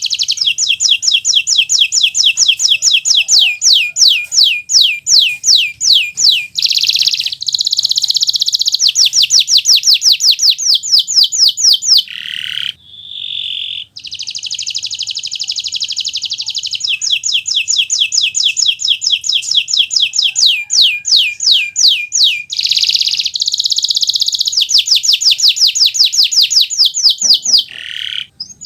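Canary singing a loud, fast song. Each phrase repeats a quick downward-sweeping note several times a second, and these alternate with denser rolled trills. There is a short pause about halfway through.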